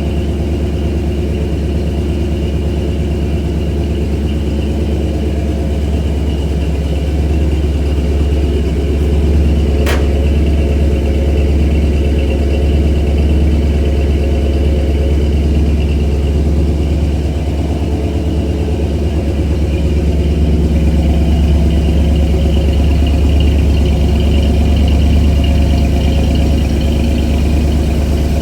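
Ford 351 Windsor V8 in a 1977 Mustang Cobra II idling steadily while warming up before an oil change, with one sharp click about ten seconds in.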